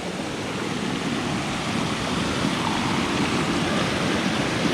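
Rushing water of a jungle waterfall and its stream, a steady, even wash.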